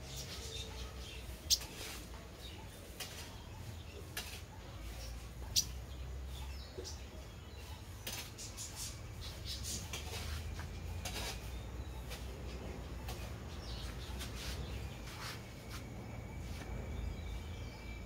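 Small birds chirping in short, scattered calls over a steady low background hum, with two sharp louder ticks, one about a second and a half in and one about five and a half seconds in. A faint steady high tone comes in near the end.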